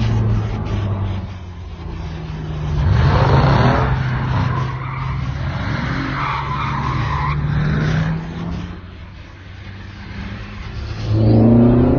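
Car engine running, revving up twice, with tyres skidding and squealing in between.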